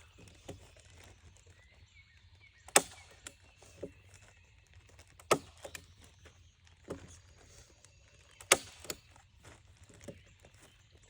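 Heavy-duty staple gun firing staples through plastic sheeting into wood, three sharp snaps spaced a few seconds apart, with softer knocks and handling noise between them.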